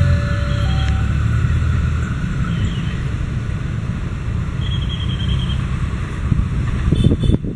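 Passenger train of stainless-steel coaches rolling away along the track, a steady low rumble of wheels on rail. An alternating two-note tone stops about a second in, and wind buffets the microphone near the end.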